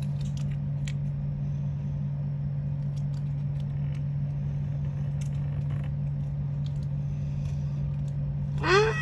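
Scattered light clicks and crackles of small paper or plastic model pieces being handled, over a steady low hum. Near the end comes a loud, frustrated cry of "Ah!".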